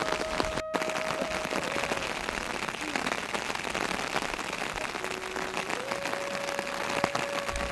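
Steady rain, a dense patter of drops hitting surfaces. A thin steady high tone sounds over it, fades out about two seconds in, and returns near the end.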